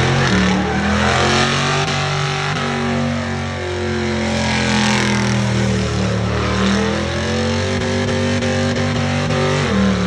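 Chevy truck's V8 engine held at high revs during a burnout. The revs sag and climb back up several times over a loud steady hiss.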